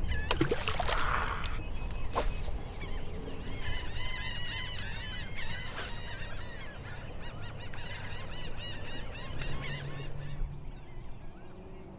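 A flock of birds calling in many short, overlapping, repeated honking calls from about three and a half to ten seconds in, with a few sharp knocks near the start.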